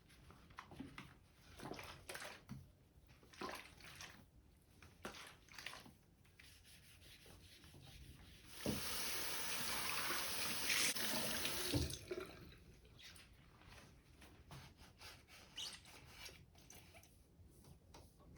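A tap runs water into a sink for about three seconds in the middle, a steady hiss. Before and after it come light, scattered clicks and knocks of small objects being handled.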